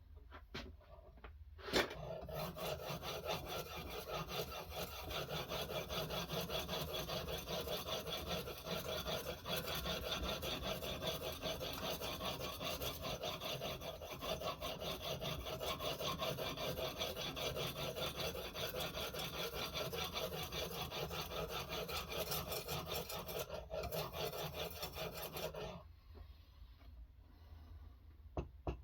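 Ruixin Pro sharpening stone stroked rapidly back and forth along a knife edge on a guided sharpening system: a continuous gritty rasping scrape. It starts about two seconds in, right after a click, and stops abruptly near the end.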